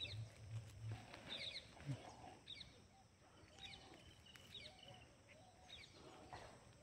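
Near silence with faint birds chirping in the background: short, high chirps about once a second.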